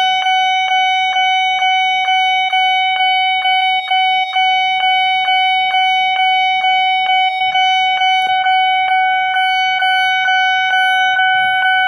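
Railway level-crossing warning signal sounding: a loud electronic alarm tone, pulsing evenly about three times a second, warning that a train is approaching.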